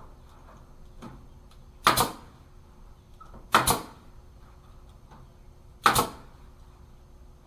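Staple gun firing three times, sharp clacks a second or two apart, as wire mesh is stapled to the chicken tractor's wooden frame.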